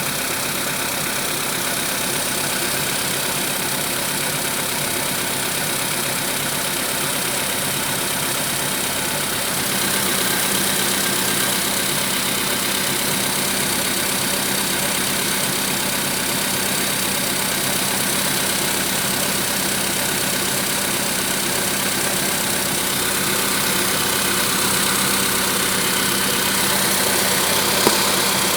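Volkswagen Polo Sedan engine running steadily with a knock, 1000 km after its piston group was replaced. It gets a little louder about ten seconds in, and there is one sharp click near the end.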